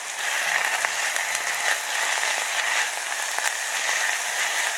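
Sauerkraut sizzling steadily in hot olive oil in a small 6-inch Dutch oven as it is stir-fried, with a few faint clicks.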